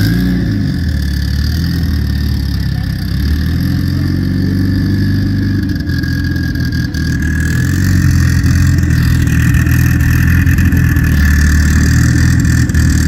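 Mitsubishi Lancer Evolution X's turbocharged four-cylinder running at low revs as the car creeps along, a deep steady engine note with a steady high whistle over it; it gets a little louder about eight seconds in.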